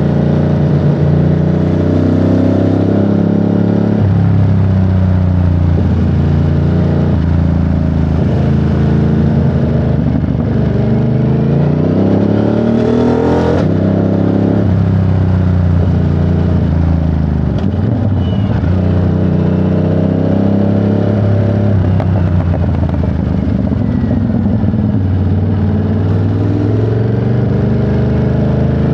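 Ducati Monster 937's 937 cc Testastretta L-twin engine riding, its revs climbing and dropping again and again as it pulls through the gears and eases off. A brief sharp noisy burst comes about halfway through as the revs fall.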